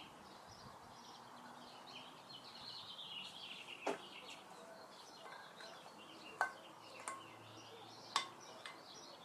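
Four sharp metallic clicks spread over several seconds, from a vise grip and socket being worked as a makeshift valve spring compressor to seat valve keepers. Faint birds chirp in the background.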